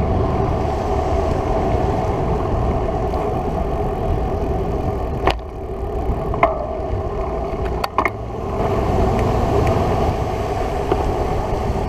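Steady motor-vehicle noise from a road, with a few sharp clicks between about five and eight seconds in.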